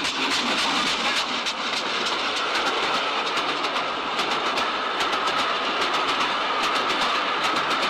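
A train running steadily along the track, its wheels clicking rapidly over the rail joints with a continuous rumble of the moving train underneath.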